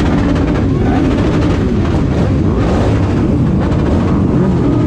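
Several motorcycle engines running together, their pitches rising and falling and overlapping.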